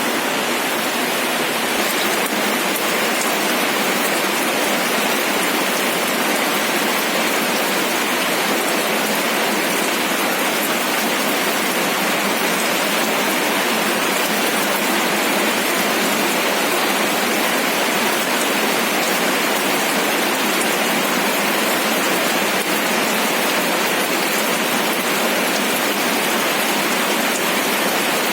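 Steady rain falling and pattering on a surface, an even hiss with fine drops throughout and no change in strength.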